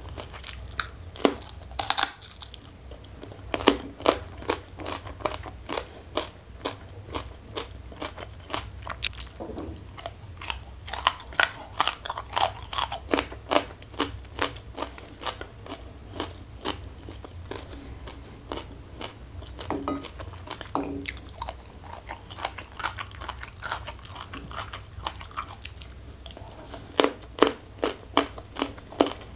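Close-miked chewing of crunchy food: runs of sharp crunches and wet mouth clicks, with quieter pauses between mouthfuls and a new cluster of crunches near the end.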